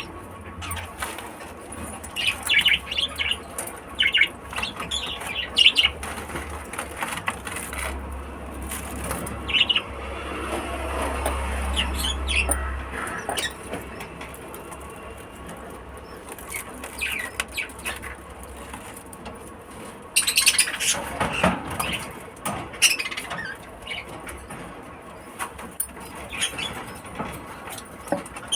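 Lovebirds chirping in short, high-pitched bursts, with scattered flutters and knocks between the calls.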